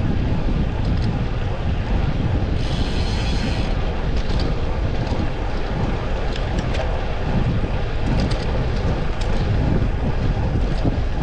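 Wind buffeting the microphone of a rider's camera while cycling on a road bike: a steady, loud low rumble. A brief hiss cuts in about three seconds in, with faint scattered ticks.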